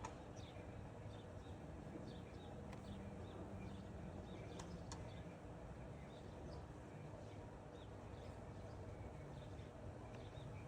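Faint outdoor ambience with scattered short, high bird chirps over a faint low hum.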